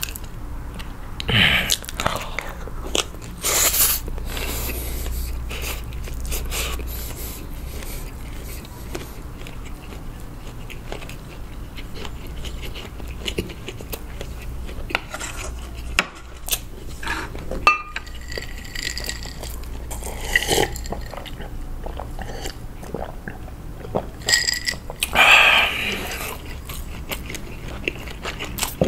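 Close-miked chewing and biting of stir-fried instant noodles and crisp-skinned air-fried Vienna sausages: wet mouth sounds and small crunches, with louder bites a couple of seconds in and again near the end.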